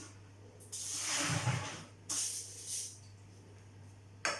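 A hiss lasting about a second, with a low thud in the middle of it, then a shorter hiss and a sharp click near the end.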